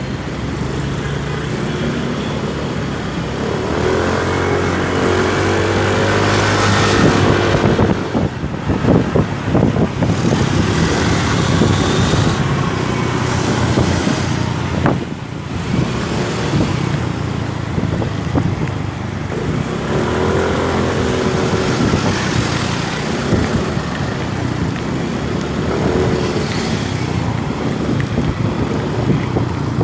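Motorcycle engine running on the road, rising in pitch several times as it accelerates, over steady road noise. There are a few sharp knocks in the middle.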